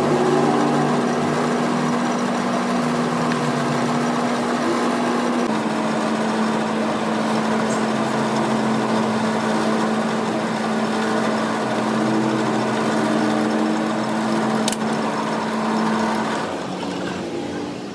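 Electric workshop machine motor running with a steady hum, winding down and stopping near the end, with a single sharp click shortly before.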